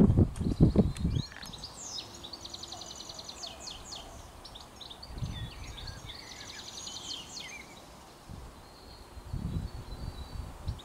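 A songbird singing rapid, repeated trills, with gusts of wind buffeting the microphone that are loudest in the first second.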